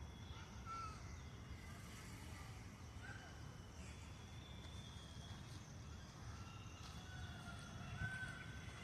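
Faint short bird calls, a few scattered chirps and then several more close together near the end, over a steady low rumble.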